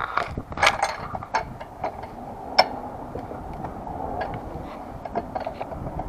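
Hand tools working on metal: irregular clicks and clinks, with the sharpest knocks about half a second and two and a half seconds in.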